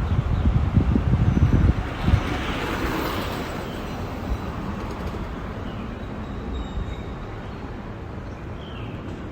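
Wind buffeting the microphone on a moving bicycle for the first two seconds, then a steady outdoor hiss with a few faint bird chirps.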